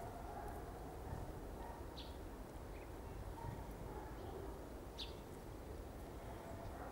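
A small bird giving short high chirps, two clear ones about three seconds apart, over a steady low outdoor rumble.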